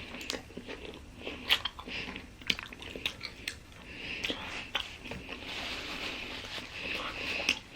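Close-up mouth sounds of a person biting and chewing a Philly cheesesteak sub sandwich: irregular wet clicks and soft crunching of the bread.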